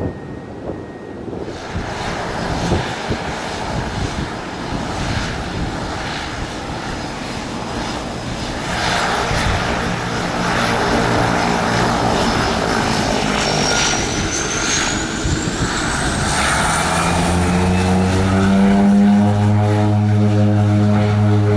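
Aircraft engines growing steadily louder as the plane comes closer, with a high whine rising in pitch. About 17 seconds in a deep, steady hum with a stack of overtones takes over.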